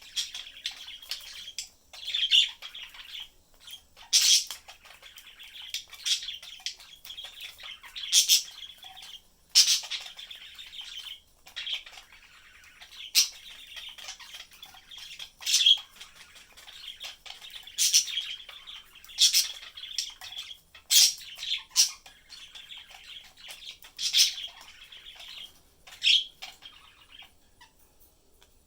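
Budgerigars chattering: a steady warble punctuated by loud, sharp chirps every second or two, thinning out near the end.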